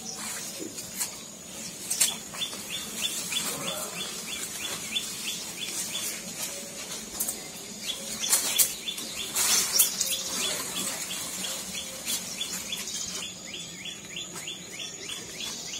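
Forest sounds: a bird's rapid series of short falling chirps, several a second, repeating over a steady high insect whine. Leaves and brush rustle and crackle at times, loudest about eight to ten seconds in, as the undergrowth is pushed through.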